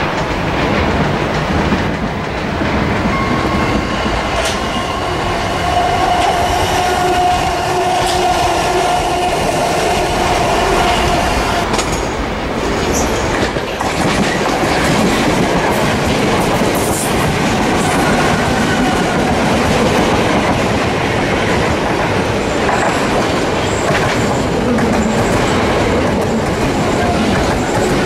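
Electric trains running on the lines through the station: a steady, loud rail rumble, with a whining tone from about four to eleven seconds in, ending as a Gatwick Express Class 442 unit passes close by.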